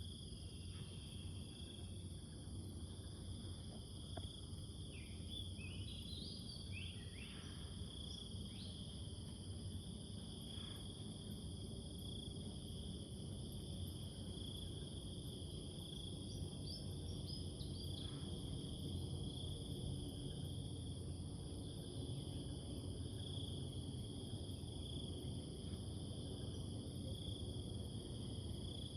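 Steady high-pitched insect shrilling, with short bird chirps breaking in: a cluster about five to nine seconds in and another around sixteen to eighteen seconds in, over a low background hum.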